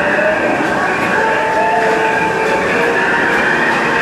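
Disneyland Railroad train rolling steadily along the track: even wheel-and-rail running noise heard from aboard a passenger car, with a few thin held tones over it.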